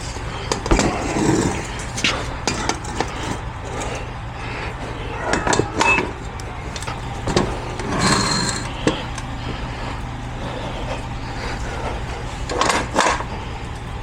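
A vehicle engine idling steadily, with scattered knocks and clanks from work going on around it.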